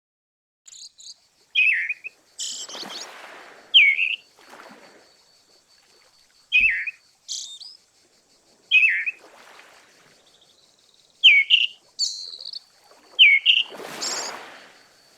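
Birds chirping: short, repeated chirps that fall in pitch, about ten of them, over a faint steady high tone, with several rushing, breathy noise bursts between the chirps.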